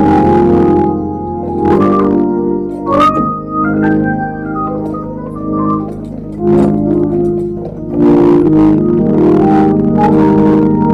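Organ music: loud, held chords that change every second or two, with a higher melody line moving over them a few seconds in.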